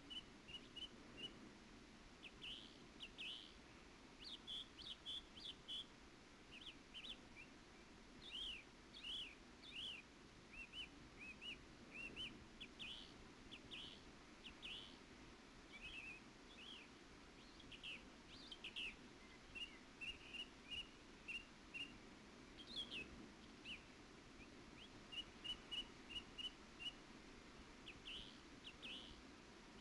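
Faint birdsong: small birds chirping in many short notes and brief trills, some quickly repeated.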